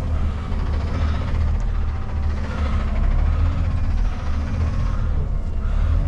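Semi-truck's diesel engine running steadily at low revs while the rig backs a trailer into a dock door.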